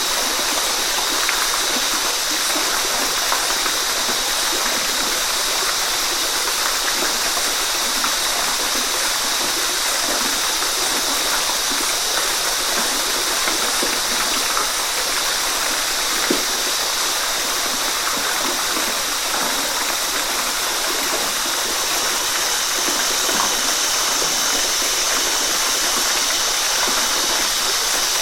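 Waterfall: a steady, even rush of falling water with small splashes flickering through it.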